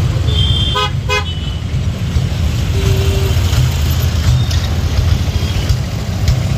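ICF passenger coaches rolling along the track with a steady low rumble. About a second in, a horn gives two short toots.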